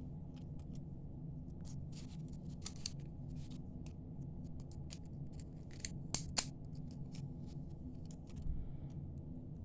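Irregular small clicks and taps of carnelian and crystal beads being picked up and set down, over a steady low hum.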